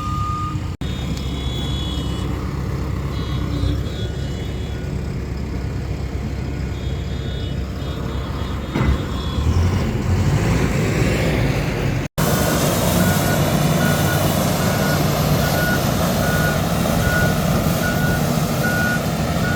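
A vehicle's reversing alarm beeping about once a second over a running diesel engine during unloading at the delivery site.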